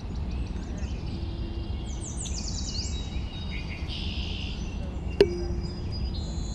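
Birds chirping and twittering in quick, high, falling notes over a steady low rumble, with one sharp click a little after five seconds in.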